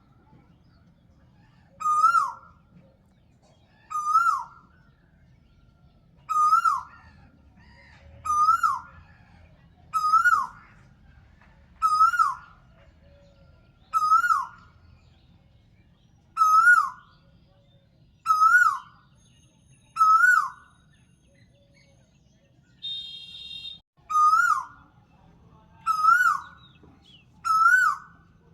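A bird giving one short call over and over, about every two seconds, each note rising then dropping in pitch. About three-quarters of the way through, a different brief, higher buzzing note sounds once.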